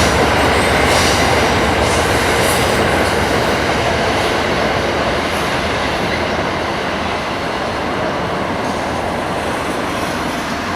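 Amtrak passenger train rolling past on the rails, a loud, steady wheel-and-rail noise that slowly eases.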